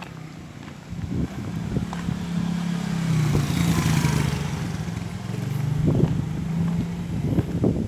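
A motor vehicle passes: a steady engine hum grows louder to a peak about four seconds in, then fades, with a few knocks near the end.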